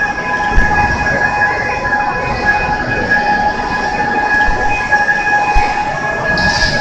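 Overhead travelling crane carrying a Shinkansen car body, running with a steady whine of several high tones over a constant rumble. A short hiss comes near the end.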